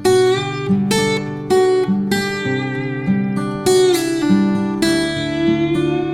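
Background music on acoustic guitar: plucked and strummed notes with a sustained melody line over them.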